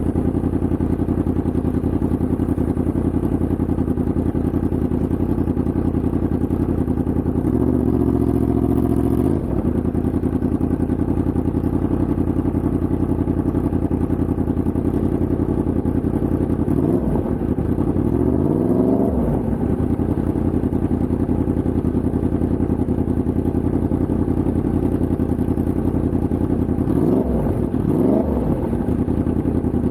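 Yamaha MT-10's crossplane inline-four engine running steadily under way, with the revs briefly rising and falling about a quarter of the way in, again past the middle, and near the end.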